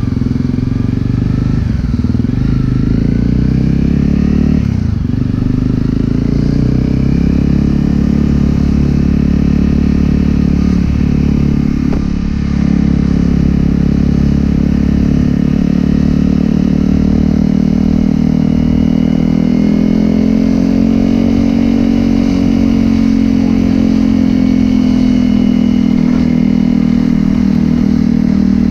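Honda CRF250L single-cylinder engine through a Yoshimura exhaust, pulling up through the gears with several quick dips and climbs in pitch in the first few seconds, then running at a steady cruise, the note rising a little about twenty seconds in.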